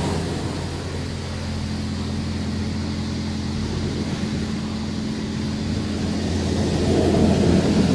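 Automatic car wash machine running as it travels around the car, heard from inside the car: a steady low motor hum with a spray hiss over it, growing louder near the end.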